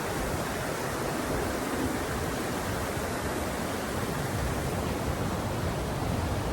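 Steady outdoor rushing noise, even and unbroken, heaviest in the low end.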